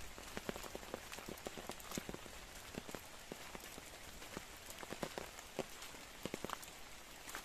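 Rain falling steadily, a constant hiss with many close, irregular drops tapping.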